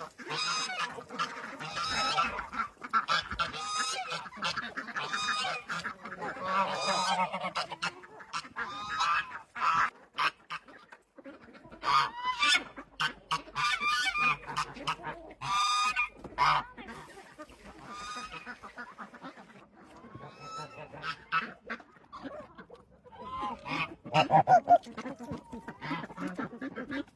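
A flock of domestic poultry calling: many short, overlapping calls that briefly thin out a few times.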